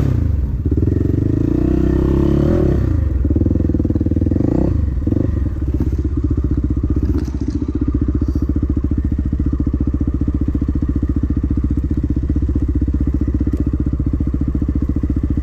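Dirt bike engine revving up and down a few times in the first five seconds, then settling to steady running at low revs.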